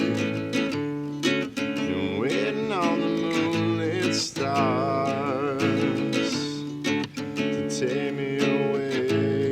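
Acoustic guitar strummed in a live acoustic song, with regular strum strokes under a melody line that slides and wavers in pitch.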